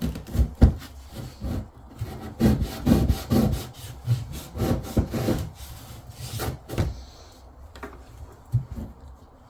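Irregular rubbing and scraping strokes mixed with knocks, as of wiping and handling things around a sink and its cabinet during cleanup after fitting a tap. The sounds come in clusters and thin out over the last couple of seconds.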